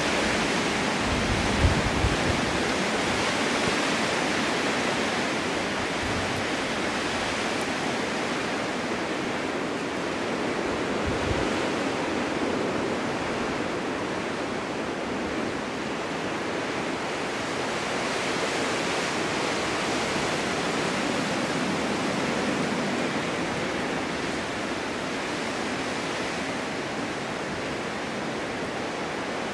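Winter wind blowing snow in a steady, dense hiss that slowly swells and eases. A few low rumbles of gusts buffet the microphone about two seconds in and again about eleven seconds in.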